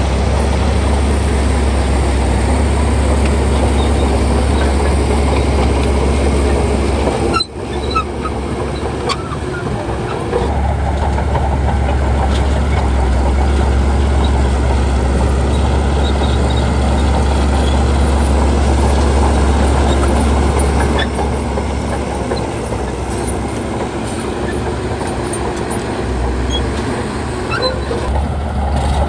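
Bulldozer's diesel engine running steadily under load, with a heavy low drone. The sound cuts out for an instant about seven seconds in.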